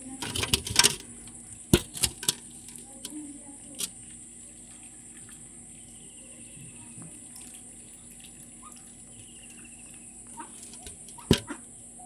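Water splashing in a quick cluster at the start, then a few single sharp splashes or knocks, the last and loudest near the end, over a steady high-pitched drone.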